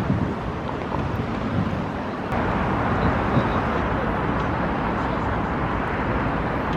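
Steady outdoor street noise with vehicle sound, which steps louder and brighter about two seconds in.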